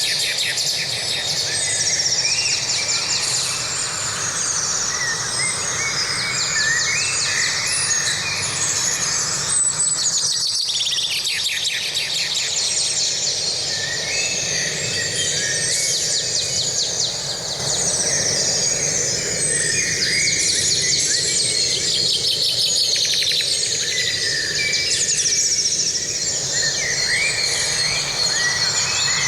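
Many birds singing and calling at once, a dense chorus of overlapping chirps and trills, over a steady rushing background noise.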